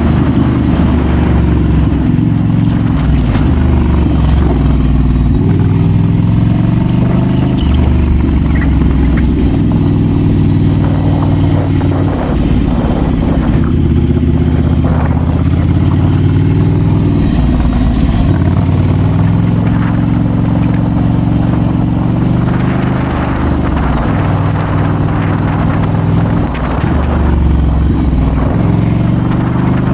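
Ducati Scrambler's L-twin engine running under way, its revs rising and falling again and again with throttle and gear changes.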